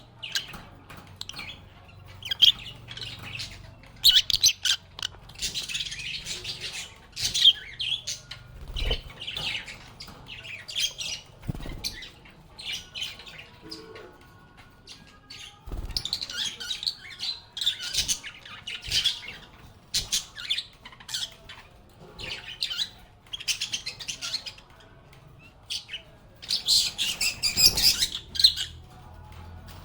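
Several lovebirds chirping and squawking in short, irregular bursts of shrill calls, with a few low knocks now and then.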